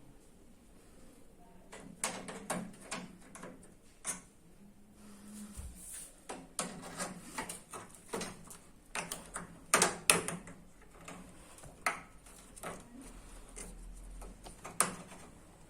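Irregular clicks and knocks of metal parts and hand tools being handled, with a few louder clanks.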